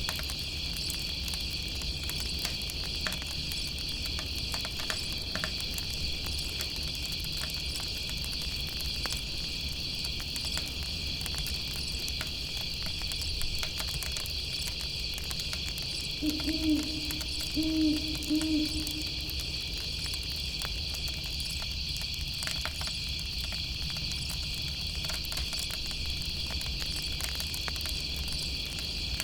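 Steady chorus of chirping night insects with a campfire crackling underneath. A little past the middle an owl gives a short run of low hoots.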